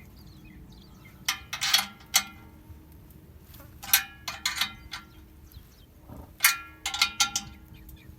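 Sharp metal-on-metal clinks with a short ringing, coming in three clusters: tools and steel band clamps knocking against the exhaust tip and pipe while a ratchet and socket tighten the clamps.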